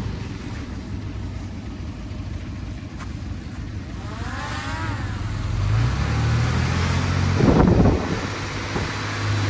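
Diesel engine of heavy earthmoving machinery running at low revs, then revving up about six seconds in, with a brief loud rough burst near the end and a short rising-and-falling whine around the middle.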